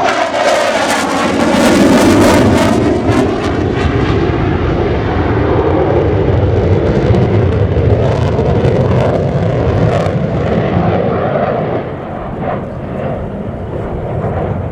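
A Mitsubishi F-2B fighter's single afterburning turbofan jet engine as the jet passes by. It is loud, with a falling sweep in its tone over the first few seconds and the peak about two seconds in. Then a steady rumble follows, easing somewhat near the end.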